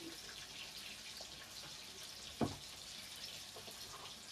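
Food frying in hot oil: a steady sizzle with scattered small crackles and pops. One sharp knock about two and a half seconds in, like a utensil striking the pan.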